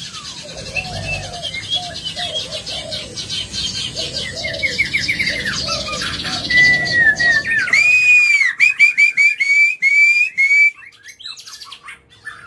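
White-rumped shama (murai batu) singing: a fast run of rapid, repeated chattering notes, changing about eight seconds in to louder, clear whistled notes repeated in quick succession, which fall away near the end.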